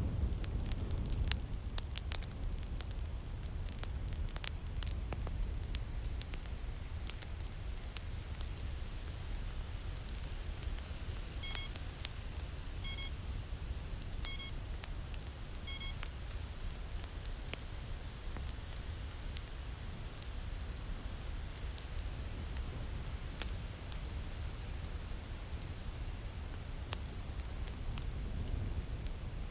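A Pomodoro timer alarm sounds four short, high, ringing tones, evenly spaced about a second and a half apart, marking the end of the 25-minute session. Under it runs a steady ambience of winter wind with the snap and crackle of a fire.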